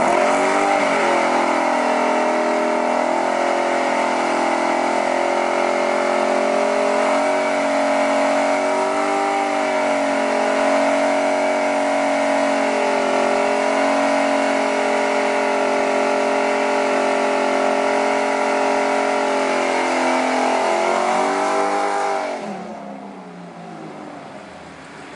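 Ford Mustang Mach 1's 4.6-litre DOHC V8 held at high, fairly steady revs through a long burnout, with the rear tyres spinning. The revs climb right at the start and waver a little. About 22 seconds in they drop and the engine goes much quieter.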